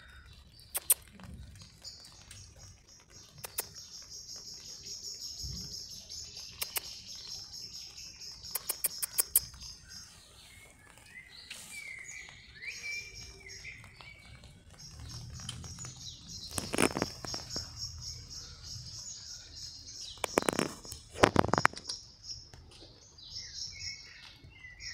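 Birds chirping and trilling in a high, fluttering band that runs for several seconds at a time, with a few short whistled notes. Scattered sharp clicks cut through, the loudest a quick cluster about twenty seconds in.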